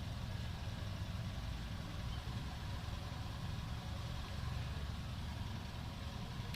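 Steady low engine rumble, like a vehicle idling, with no clear changes in pitch or level.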